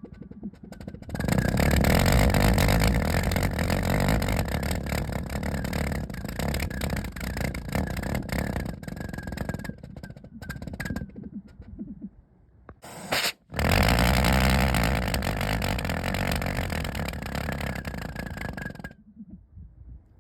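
Homemade valveless pulsejet engine without a diffuser, fired on methyl hydrate, running loud and rough with a deep low pulsing, like an old diesel tractor trying to start in winter. It runs for about ten seconds, drops out, gives a short burst, then runs again for about five seconds before stopping.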